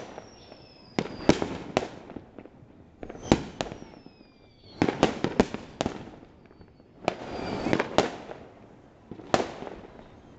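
New Year's Eve fireworks and firecrackers going off all around: irregular sharp bangs, some in quick clusters, with a stretch of dense crackling about seven to eight seconds in and a few thin falling whistles.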